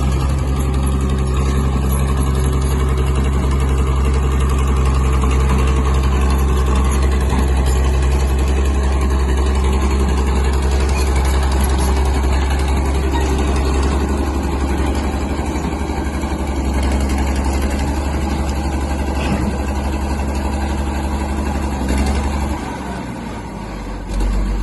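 A heavy vehicle's engine running at a steady speed, its note shifting about two seconds before the end.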